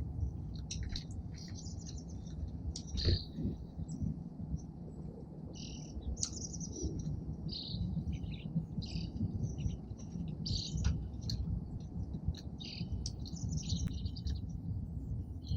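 Small songbirds at a feeder chirping and calling: many short, high chirps, one after another and overlapping, over a steady low background rumble.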